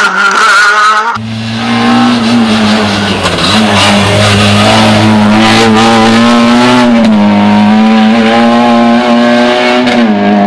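Rally car engine running loud at high, near-steady revs, with short dips in pitch about three and a half and seven seconds in. It follows an abrupt change in the sound a little over a second in.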